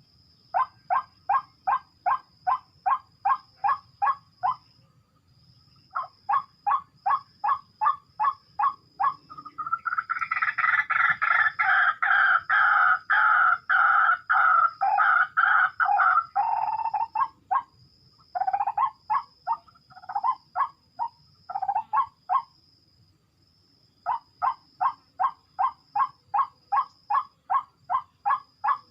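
White-breasted waterhen (ruak-ruak) calling in rapid runs of short notes, about three to four a second, with brief pauses. In the middle the calling swells into a louder, fuller stretch for several seconds, then falls back into the same quick runs.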